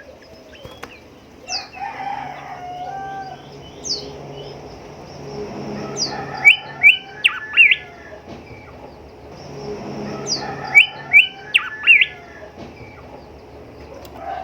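Golden whistler singing: two similar phrases, each opening with thin high slurred notes and ending in a loud burst of quick, sharp whistled notes.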